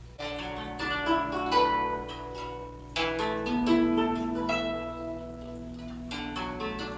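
Guzheng (Chinese zither) being played: plucked notes that ring on, with loud clusters of rapidly plucked notes about a quarter second in and again at three seconds.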